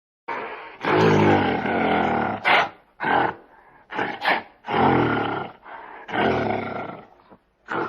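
An animal's calls: three long, low-pitched calls of about a second each, with shorter calls between them and a brief one near the end.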